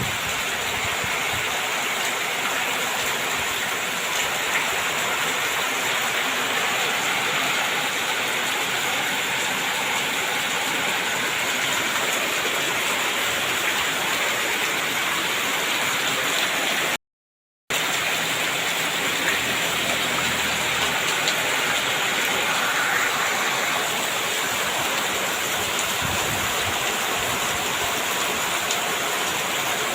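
Heavy rain pouring down in a steady, dense hiss. It cuts out completely for under a second about halfway through, then carries on the same.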